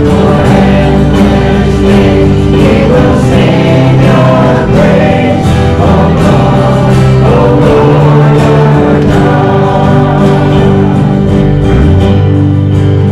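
Gospel worship song: a choir singing sustained chords over instrumental accompaniment with a steady beat.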